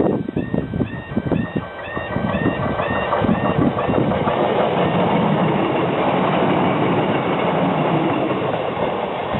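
Level crossing warning alarm warbling in a repeating two-tone pattern over the rhythmic clatter of a diesel multiple unit's wheels on the rail joints. The alarm stops about three seconds in, and the passing train's wheels and diesel engine go on as loud steady noise.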